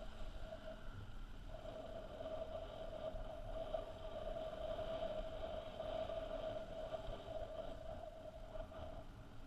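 Motorcycle running at a steady speed, with a steady whine over a low rumble and hiss; the whine drops out briefly about a second in and again near the end.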